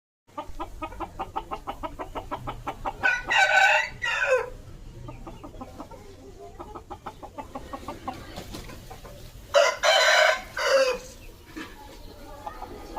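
Aseel rooster crowing twice, short loud crows several seconds apart, with rapid regular clucking at the start and quieter clucking in between.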